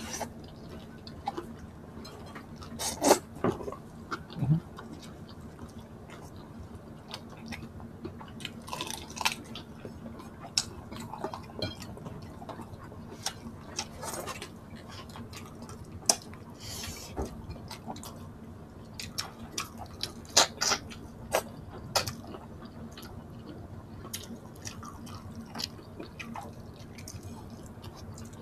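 Close-miked mukbang eating sounds: wet chewing and lip smacks with many short, irregular clicks, from a person eating salmon-head sinigang (sour soup) with shrimp.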